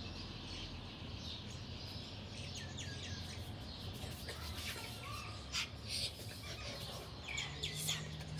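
Birds chirping in short, scattered calls over a low, steady background hum, with a few brief clicks.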